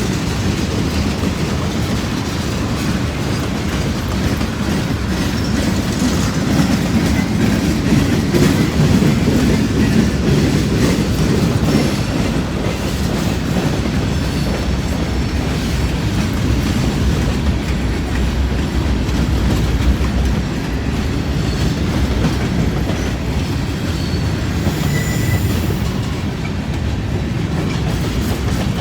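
Cars of a long mixed freight train rolling steadily past at close range: a continuous rumble of steel wheels on rail with clickety-clack over the rail joints, and a brief faint wheel squeal near the end.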